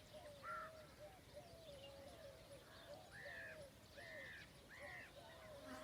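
Several birds calling: a steady overlapping chatter of short, low calls, with a louder, higher arched call repeated four times.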